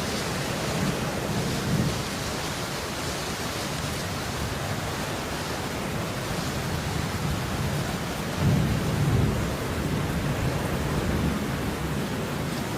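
Steady rain hiss, with a low rumble that swells and fades beneath it, loudest about two-thirds of the way through.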